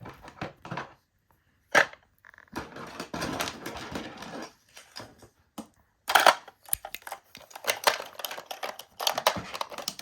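Irregular clatter and clicking of small plastic toy pieces being handled, with a few sharp knocks, the loudest about two seconds in and again about six seconds in.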